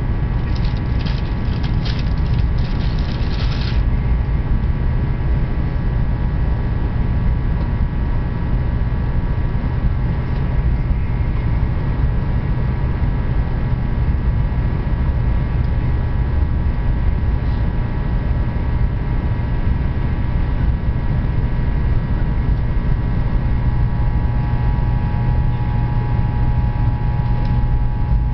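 Train running steadily: a continuous low rumble with a few faint steady whining tones above it, and a brief run of clicks in the first few seconds.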